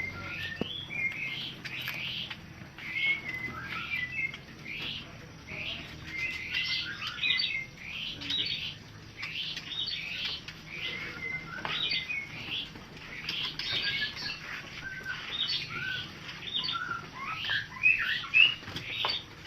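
Many birds chirping and calling together, dense and overlapping, with constant short, quick calls from a large group of small birds.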